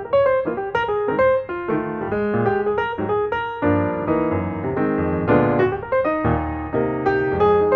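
Background piano music: a steady run of single notes in a gentle melody.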